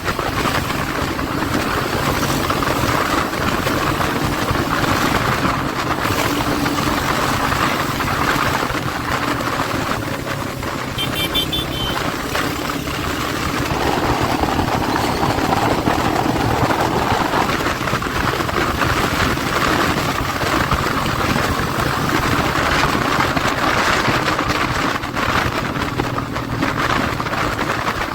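Motorcycle engine running steadily on the move, under a continuous rushing noise.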